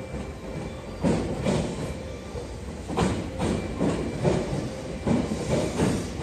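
Train rolling slowly into a station over a low steady rumble, its wheels knocking over rail joints in close pairs, a double clack about every second.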